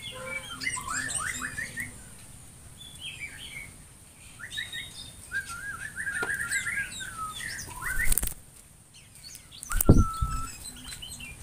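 Birds chirping, many short calls one after another. About ten seconds in comes a brief rush and thump of wings as a large dark bird flies close past.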